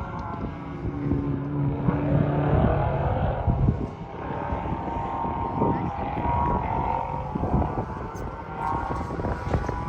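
Race car engines passing on a track, their pitch rising and falling as they accelerate and go by.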